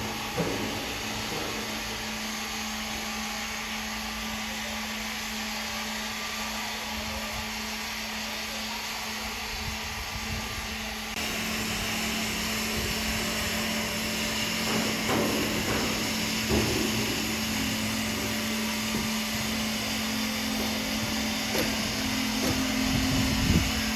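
Sawmill machinery running with a steady hum. It grows louder about eleven seconds in, and scattered knocks follow in the second half.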